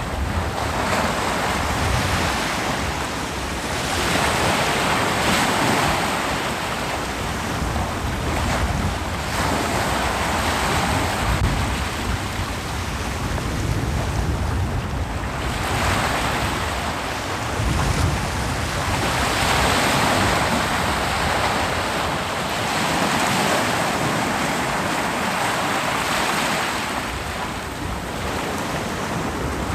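Ocean waves breaking on a beach, the surf swelling and easing again every few seconds, with some wind on the microphone.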